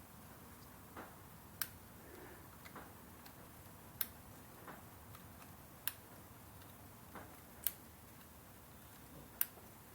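Electrical plug connectors snapping home onto the ignition coil packs of an Audi 2.0 TFSI engine, one after another. There are five sharp, faint clicks roughly two seconds apart, with a few softer clicks between them.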